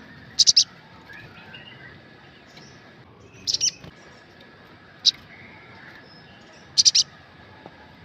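Olive-backed sunbird calling: short, sharp, high chirps in quick clusters of two or three, four clusters spaced a second or more apart, over a faint steady hiss.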